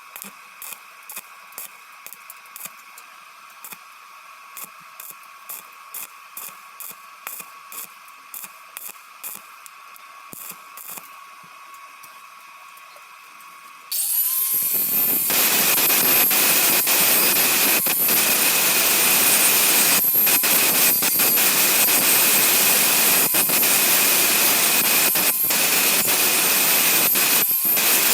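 Welding on thin 0.8 mm sheet steel. First comes a run of short pulses, about two a second, typical of stitch or tack welding to avoid burning through. About halfway the pulses give way to a loud, steady arc hiss and crackle with a few brief breaks.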